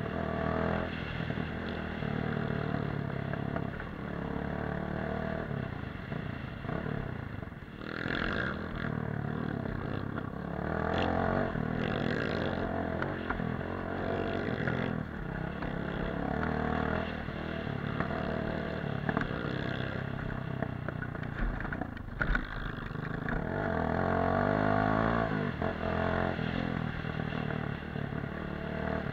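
Dirt bike engine running while riding off-road, its pitch rising and falling with the throttle, with a few knocks and rattles along the way.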